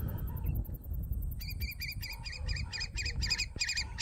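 A bird flying overhead calls in a rapid series of short, high, wavering notes, about four a second, starting about a second and a half in. Wind rumbles on the microphone underneath.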